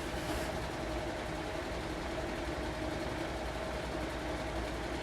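Steady mechanical background hum with a faint steady tone in it, unchanging throughout.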